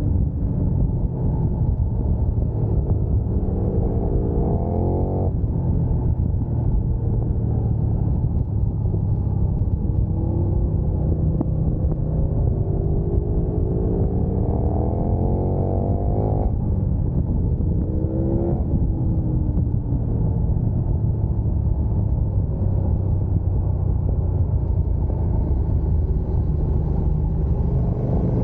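Motorcycle engine pulling hard under way, its note climbing and then dropping sharply at upshifts: once about five seconds in and twice more past the middle, then falling off as it slows. A heavy low wind rumble runs under it.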